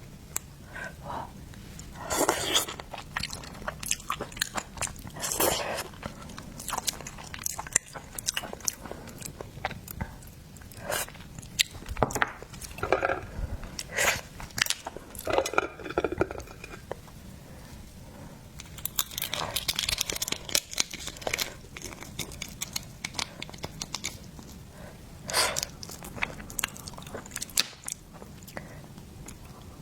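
A person eating seafood: irregular chewing, biting and crunching, with sharp clicks and short scrapes coming in bursts of a second or so.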